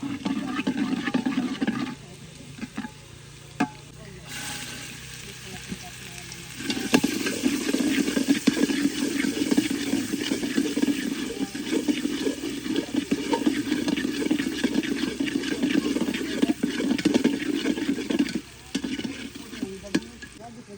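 Food being stirred in a cooking pot: noisy scraping and clatter in two spells, a short one at the start and a longer one from about six to about eighteen seconds in, with quieter gaps around them.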